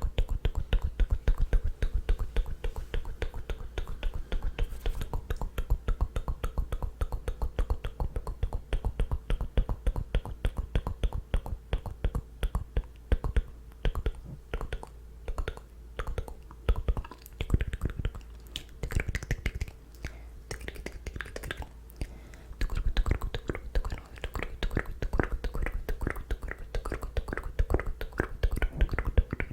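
Close-miked ASMR mouth sounds: rapid wet clicks and smacks from the tongue and lips, several a second, thinning out briefly now and then.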